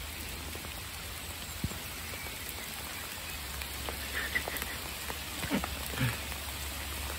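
Steady rain falling on water and grass, an even hiss, with a few faint taps in the second half.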